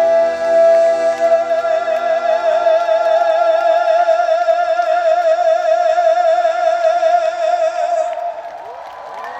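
Closing bars of a trot song: a male voice holds the final note for several seconds with a widening vibrato over the band, and the music stops about eight seconds in. The crowd starts to cheer near the end.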